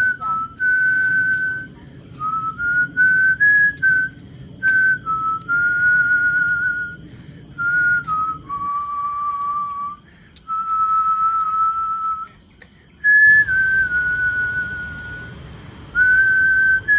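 Whistling a tune: a run of clear, single-pitched notes that step up and down, several held for a second or more, with short breaks between phrases.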